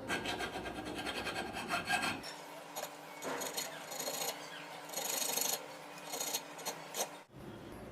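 Repeated hand-rasping strokes: a file scraping back and forth across the workpiece in uneven bursts.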